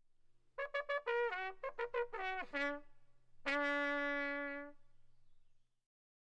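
A short trumpet phrase: a run of quick notes, several dipping in pitch at their ends, then one long held note a little over a second long before it fades.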